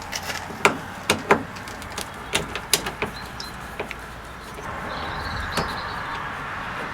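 Hand work on a van's door trim: a run of sharp clicks and knocks as the window winder handle and door-card fittings are handled, then a steady hiss from about five seconds in.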